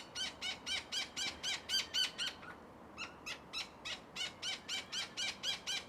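Australian king parrot fledgling begging: a fast, even run of short calls, about five a second, breaking off briefly about halfway through and then resuming, as the young bird begs for and takes food regurgitated by its father.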